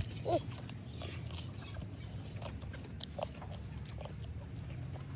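Close-miked chewing and lip-smacking of someone eating chicken feet by hand: wet clicks and smacks, with a brief squeak near the start, over a steady low hum.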